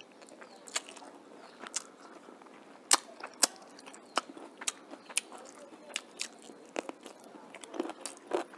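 Close-up chewing of a handful of rice and chicken curry eaten by hand: irregular sharp mouth clicks and smacks, about two a second.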